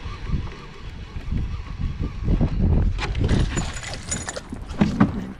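A hooked bass thrashing and splashing at the surface beside a kayak, with sharp knocks against the hull, the loudest about five seconds in.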